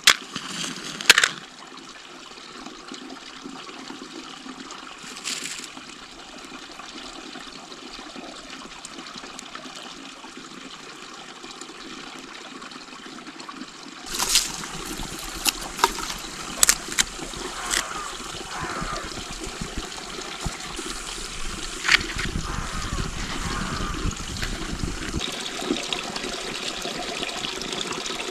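Water trickling steadily, louder in the second half, with occasional sharp clicks and knocks over it.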